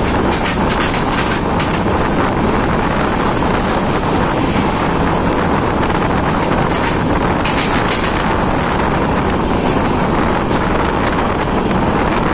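A moving passenger train heard from an open coach door: a loud, steady rush of wind buffeting the microphone over the train's running noise, with scattered clicks and clatter from the wheels and coach.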